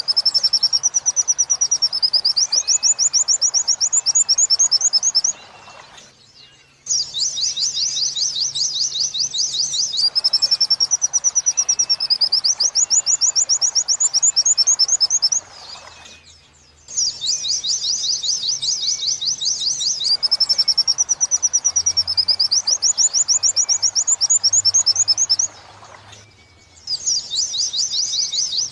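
White-eye (pleci) singing its fast 'wit-wit' song: high, rapidly repeated trilled notes in phrases about five seconds long, with a short pause roughly every ten seconds.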